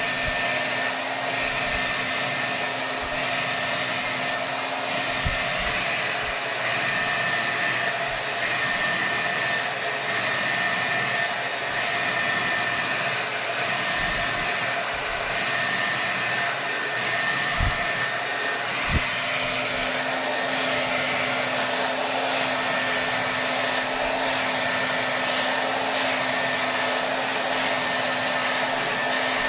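Hair dryer running on full power: a steady rush of air over a motor hum. A low tone in the hum fades away about five seconds in and comes back near the middle, and there are a few faint low bumps.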